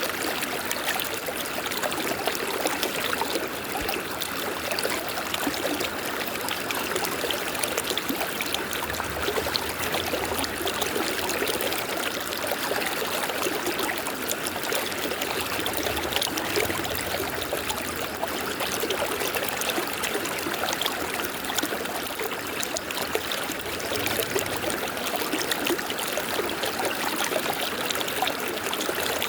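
River water flowing and babbling over rocks: a steady, even rush with a bright trickling edge.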